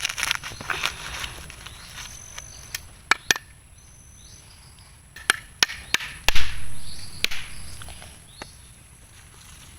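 Blade chopping into a coconut: a series of sharp, separate chops, the loudest about six seconds in.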